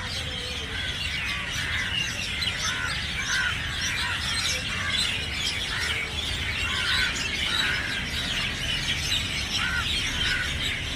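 Many birds chirping and calling at once, a dense chorus of short, overlapping calls, over a steady low rumble.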